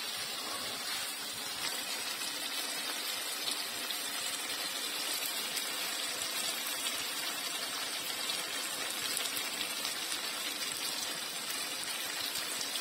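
Oily chicken curry gravy simmering in an open pan, giving a steady sizzle with a fine crackle.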